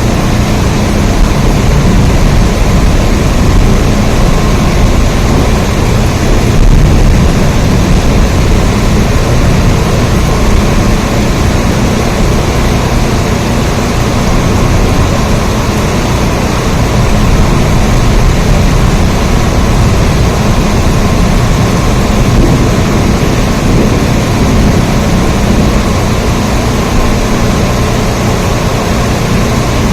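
Steady rain: a dense, even hiss with a heavy low rumble underneath that does not let up.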